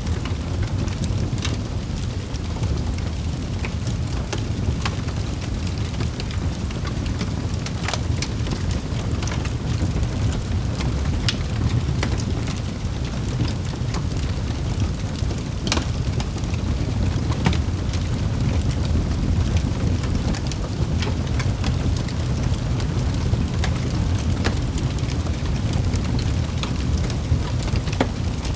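Wood fire in a fireplace crackling: scattered, irregular sharp pops and snaps over a steady low rumble of the burning fire.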